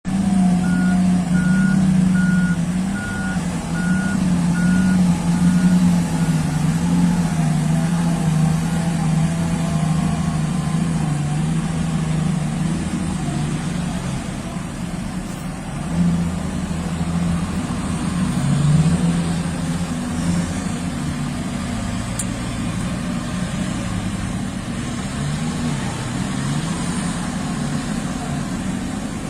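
Heavy mining dump truck's diesel engine running, its pitch rising and falling, with a reversing alarm beeping at an even pace for about the first six seconds. The engine swells louder twice in the second half.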